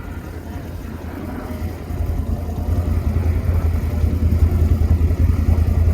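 CFMoto CForce 1000 ATV's V-twin engine running under load as the quad swims through deep water, a low rumble that grows louder about two seconds in.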